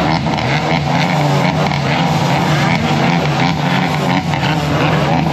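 A modified car's engine idling, a steady low drone that holds an even pitch.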